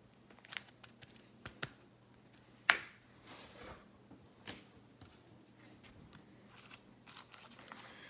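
Trading cards and their packaging being handled: scattered light clicks and taps with a short rustle, one sharper click about three seconds in.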